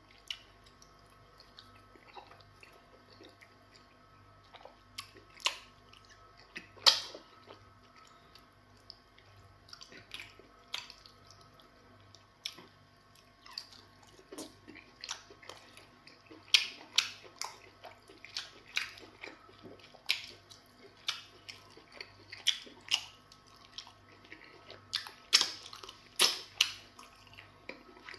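Close-up wet eating sounds of a person chewing semolina fufu with spinach soup: a run of short wet clicks and smacks from the mouth, sparse at first and then about one or two a second through the second half.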